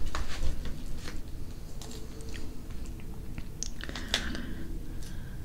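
Close-miked chewing of roast pork and rice, with a few sharp clicks and scrapes from a plastic fork in the aluminium foil tray, the loudest about four seconds in.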